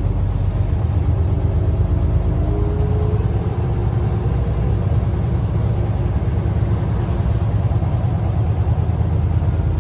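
Scania L94UB single-deck bus's diesel engine running under way, a steady low rumble with a faint whine that comes and goes.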